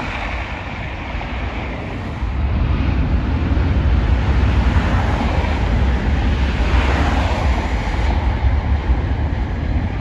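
Jet airliner engines roaring, a deep rumble that grows louder about two seconds in, with wind buffeting the microphone.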